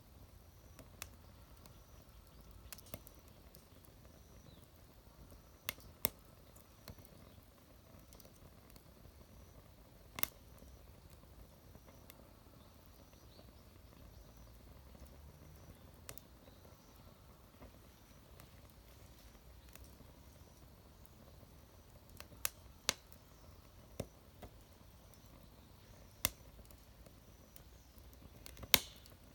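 Wood fire crackling in a homemade fire pit: scattered sharp pops and snaps at irregular intervals over a faint low rumble, with several pops close together near the end.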